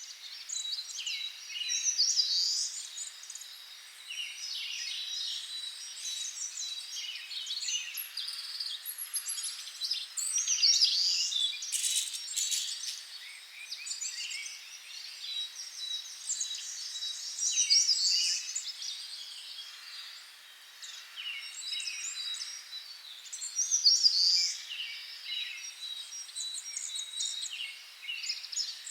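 Several songbirds singing and calling over one another in a continuous chorus of chirps, trills and whistles, louder in a few flurries, with a thin high note repeated steadily underneath.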